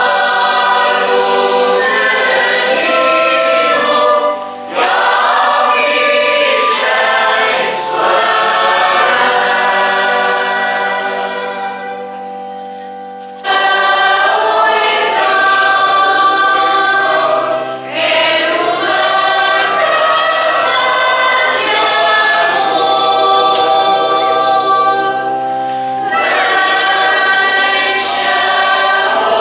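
A church choir singing a hymn over steady held low accompaniment tones. The sound fades about eleven seconds in and starts again abruptly a couple of seconds later.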